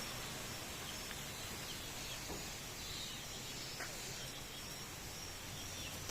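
Strong wind rushing steadily through trees, with a faint high steady insect drone and a few faint short chirps.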